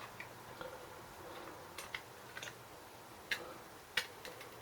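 Scattered small metallic clicks and taps of hand tools and small engine parts being handled during engine disassembly. Two sharper clicks come near the end.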